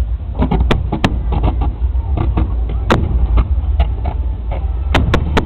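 Fireworks going off: a string of irregular sharp bangs and cracks over a steady low rumble. The loudest crack comes about three seconds in, and several come close together near the end.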